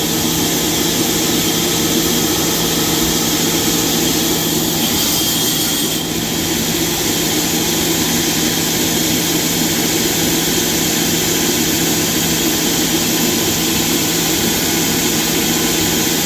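Sawmill machinery running steadily, a constant hum with a broad hiss over it. There is a slight dip in level about six seconds in.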